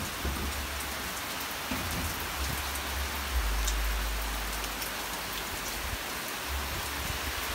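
Steady rain falling hard, an even hiss of many drops with a few sharper drips, and a low rumble coming and going underneath.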